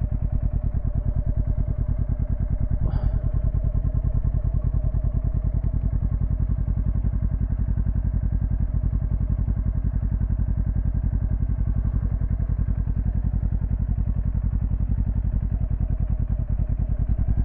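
Motorcycle engine running at low, steady revs with an even pulse, as the bike is ridden slowly through tight turns on the clutch.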